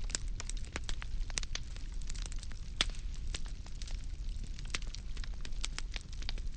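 Burning firewood crackling: irregular sharp pops and snaps, several a second, over a steady low rumble of the fire.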